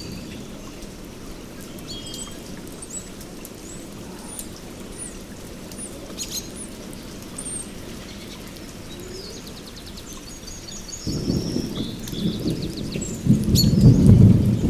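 Steady rain with birds chirping and trilling high above it. About eleven seconds in, a low rumble of thunder begins and swells, loudest near the end.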